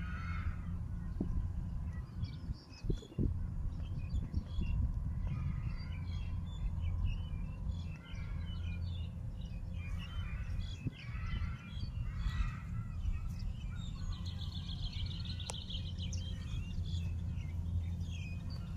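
Birds chirping and calling throughout, with one bird's fast trill about fourteen seconds in, over a steady low rumble.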